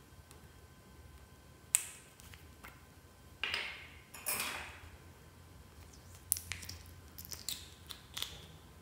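Fluffy slime being worked by hand, making sticky clicks and squelches: a sharp snap about two seconds in, two longer squelches in the middle, and a run of small pops near the end.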